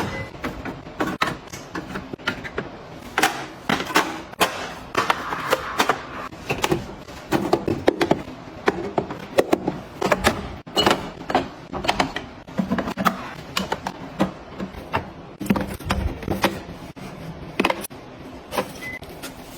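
Objects being handled and set down one after another: an irregular run of sharp clicks, taps and light knocks.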